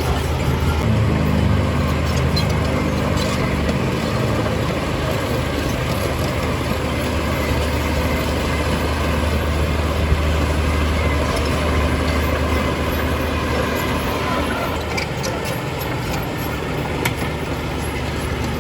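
Heavy diesel engine of earthmoving machinery running steadily with a deep drone, its pitch climbing briefly in the first few seconds as it is revved, with a few sharp knocks.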